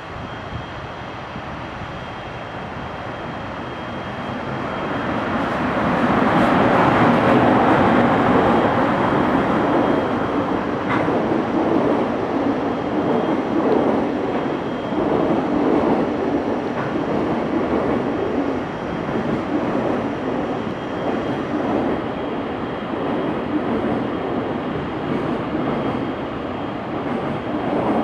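Train on the Tokaido Main Line passing. Its noise builds over the first few seconds and is loudest about seven seconds in. The noise of wheels on rails then goes on steadily as the cars go by.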